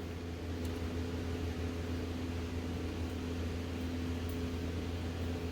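Steady low mechanical hum with a faint steady tone over it, and a couple of faint clicks.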